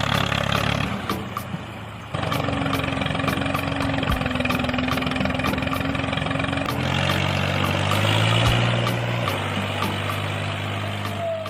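Vehicle engine idling steadily, its note changing abruptly about two seconds in and again near seven seconds.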